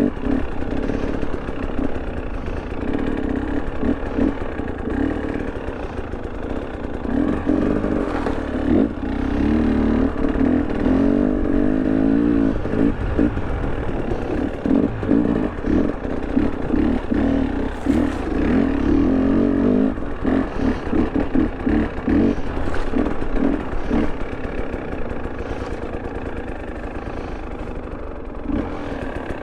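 KTM 300 Erzbergrodeo two-stroke dirt bike engine under way off-road, the revs rising and falling again and again as the throttle is opened and closed.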